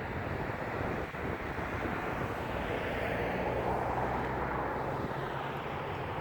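Steady vehicle noise of a car engine running and tyres on the road, with a low engine drone becoming more prominent about three seconds in.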